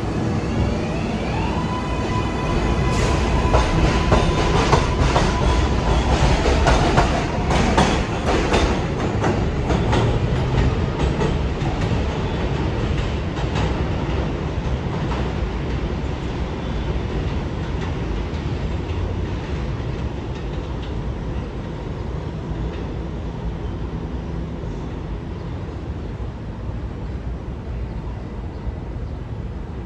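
New York City Subway R142-family train pulling out of the station. Its propulsion whine rises in steps at the start and holds a steady tone for several seconds, with the wheels clicking over rail joints, then gives way to a steady rumble of running noise that eases off gradually.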